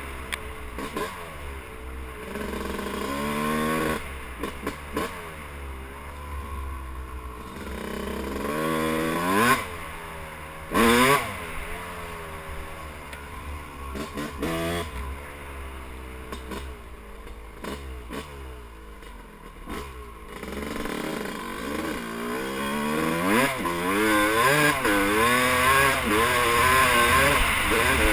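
Yamaha YZ250 two-stroke dirt bike engine revving up and falling back again and again as it is ridden at gentle throttle, freshly rebuilt, over a steady low rumble. Two sharp clattering hits come about nine and eleven seconds in, and the engine gets louder near the end.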